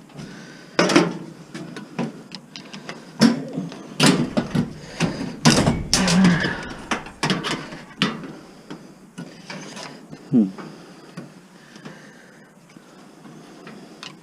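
Irregular metal knocks and clanks from hand tools working on a dishwasher being stripped for scrap, with a busier run of clatter in the middle that thins out near the end.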